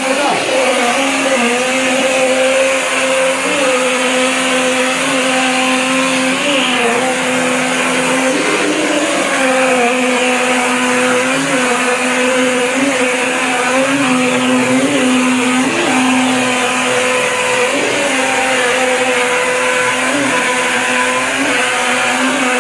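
Electric rotor-stator mortar pump running steadily, its motor hum wavering slightly in pitch every second or two, over a loud, even hiss.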